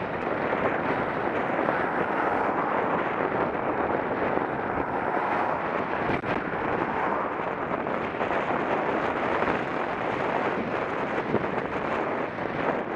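Steady wind rushing over the microphone of a Contour action camera on a moving bicycle.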